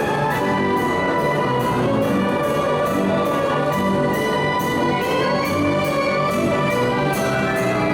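Carousel band organ playing brassy, orchestra-like music with a steady beat.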